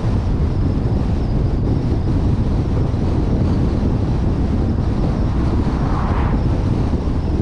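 Steady low rumble of a vehicle driving, with engine and road noise mixed with wind buffeting the microphone of a suction-cup-mounted action camera.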